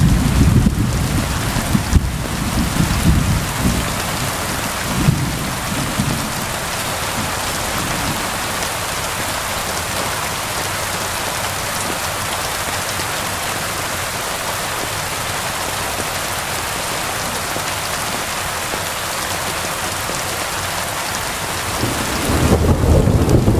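Steady heavy rain falling, an even hiss, with rolling thunder rumbling low for the first few seconds and starting up again near the end.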